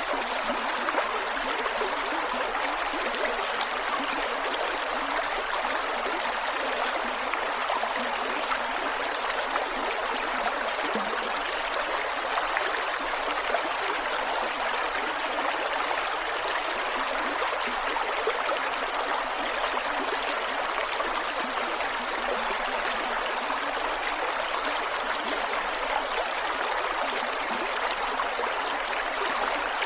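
Creek water flowing over rocks, gurgling and trickling in a steady, even rush.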